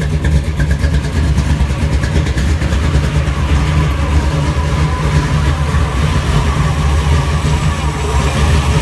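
Supercharged (blown) Hemi V8 idling with a steady, pulsing low rumble, still warming up after a cold start.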